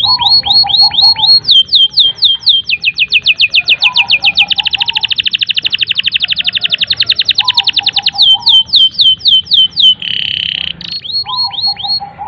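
Domestic canary singing a long, unbroken song: runs of rapidly repeated notes that each sweep down in pitch, speeding into a fast, dense trill for a few seconds in the middle, then slowing back to separate sweeping notes, with softer lower notes in between.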